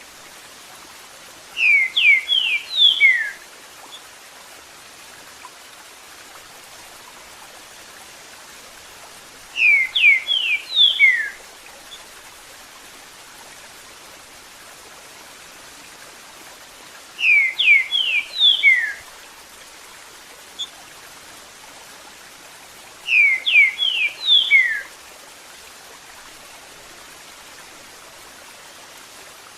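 Green-winged saltator (trinca-ferro) singing its 'Eu sou terrível' phrase four times, each a quick run of clear whistled notes lasting about a second and a half, several seconds apart. Between the phrases runs a steady background of flowing water.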